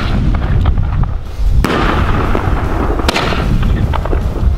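Chrysanthemum aerial shells from a pair of fireworks mortar tubes going off: two sharp reports, about a second and a half in and about three seconds in. Underneath is a steady low rumble of strong wind on the microphone.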